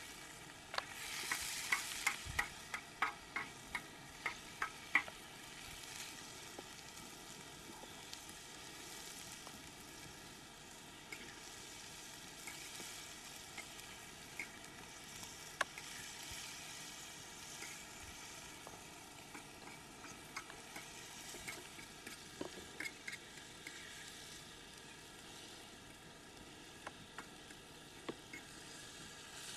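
Faint sizzling of food cooking in a pan over a fire. A run of about eight sharp clicks comes a couple of seconds in, and single clicks are scattered through the rest.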